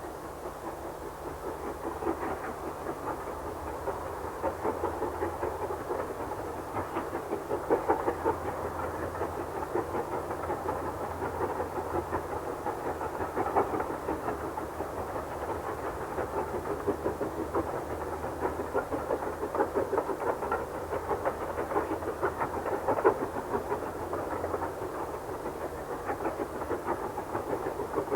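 A train running along the line: a steady rolling noise from the wheels on the rails, with many small rapid ticks and no break.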